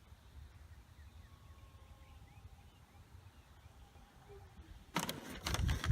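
Low wind rumble on the microphone with a faint, thin distant whine that drifts slightly lower in pitch. About five seconds in, a sudden loud bout of clattering and rustling begins.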